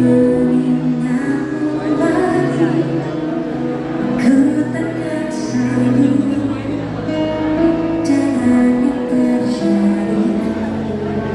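Live pop band playing: held bass notes and changing chords, with a sung vocal line over them.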